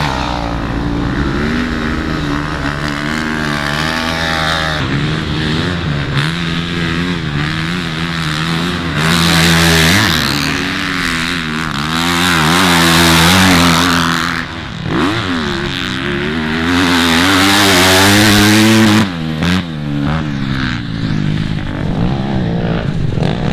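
Motocross dirt bikes racing on a track, engines revving up and down through gear changes. Three louder surges in the second half as bikes pass close.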